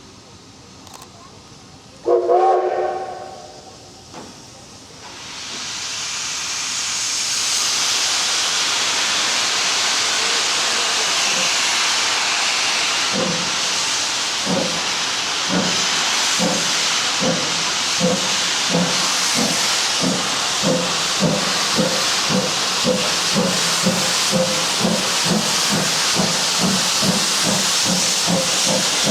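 Steam locomotive sounding a short whistle blast about two seconds in, then a building hiss of steam and, from about halfway, the exhaust chuffs of the locomotive starting off, speeding up to about two a second.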